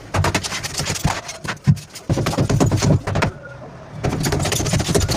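Rapid hammering impacts on hard material, coming in three bursts of about a second each with short pauses between, typical of demolition work breaking out old kitchen tiles and masonry.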